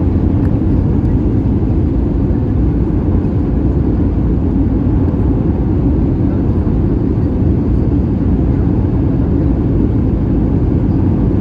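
Steady cabin noise inside an Airbus A320 in flight: an even, low rumble of engines and airflow with no change in level.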